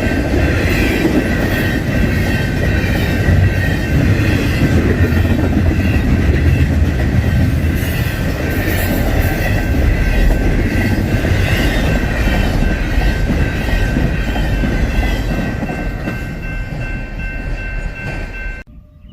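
Double-stack intermodal freight train rolling past at close range: a steady rumble of wheels on rail with clickety-clack over the joints and a thin, steady high ringing or squeal from the wheels. It cuts off suddenly near the end.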